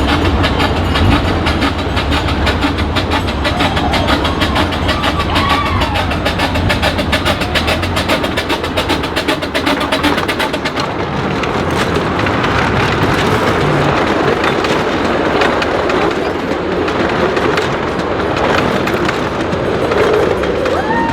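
Live steam train running along its track, with a fast, even rhythm of beats through roughly the first half and a few short squeals at times.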